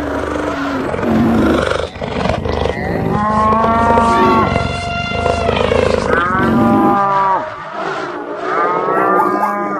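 Overlapping animal calls in a stampede sound effect: several long pitched calls, the loudest about four to five seconds in, over a dense low rumbling noise that drops away about seven seconds in.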